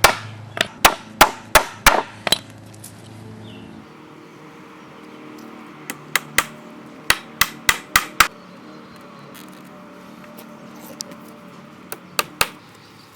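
Hammer driving nails into macrocarpa boards. There is a quick run of about eight sharp blows, a pause, about eight more, then two last blows near the end.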